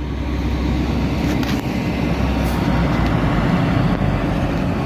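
Two coupled Class 185 Desiro diesel multiple units pulling out of the platform, their diesel engines running under power with a steady rumble and low hum.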